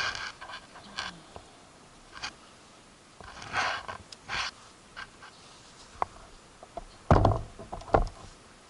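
Scattered handling noises: rustling, scraping and sharp clicks, with two heavier knocks near the end.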